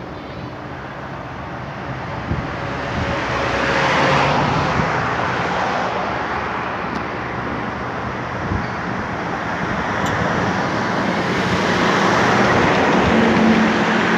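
Distant fireworks display heard as a continuous rumble of bursts and crackle that swells twice, with a few low thuds.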